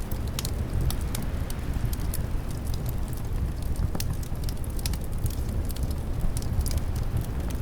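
Wood fire crackling with irregular sharp pops, over a steady low rumble of wind.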